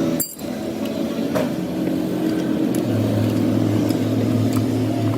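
An engine running steadily, with a deeper, stronger hum setting in about three seconds in.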